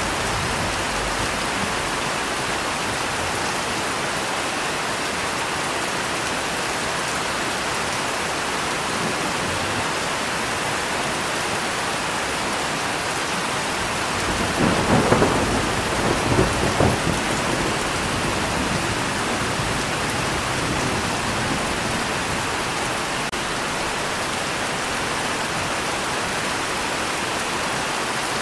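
Steady heavy rain falling, with a roll of thunder rumbling up about halfway through and dying away after a few seconds.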